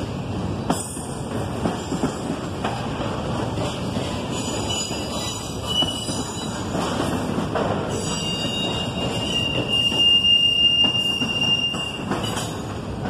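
Double-stack intermodal well cars of a freight train rolling past, a steady rumble with occasional knocks. A high, thin wheel squeal rings out about four seconds in and again, louder, from about eight to twelve seconds in.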